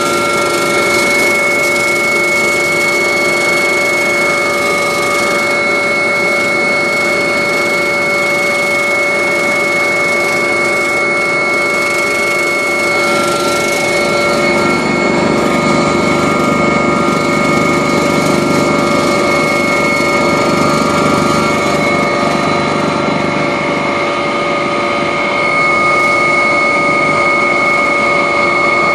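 Agusta helicopter's turbine engine and rotors running steadily, heard from on board: a loud rushing noise with several steady whining tones. A deeper rumble swells for several seconds around the middle.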